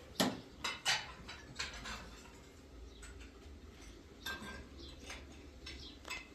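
Irregular clinks and scrapes of hard objects being handled, several sharp ones close together in the first second and a few more scattered after.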